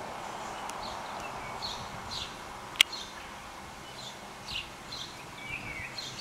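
Small birds chirping in the background: short falling chirps repeat every half second or so, with one longer wavering call near the end, over a steady outdoor hiss. A single sharp click stands out a little under three seconds in.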